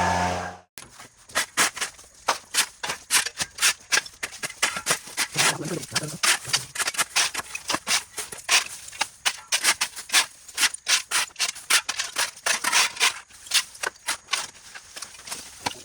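A motor cuts off within the first second. Then comes a fast, uneven run of sharp, scratchy strokes, several a second, which pauses briefly around six seconds in and thins out near the end.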